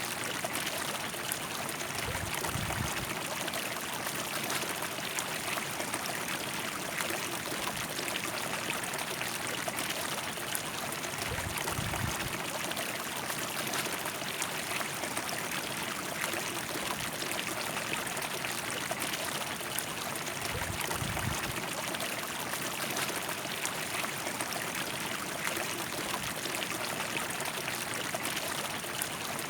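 River water flowing, a steady rush with no let-up. Three times a brief low rumble swells and fades beneath it.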